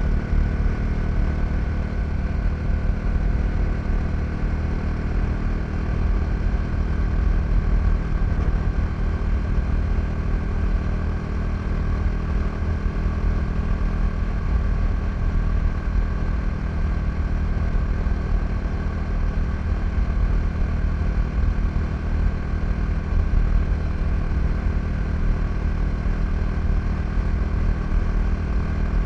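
KTM 390 Duke's single-cylinder engine running at a steady, nearly constant speed while the bike cruises, with a dense low rumble underneath.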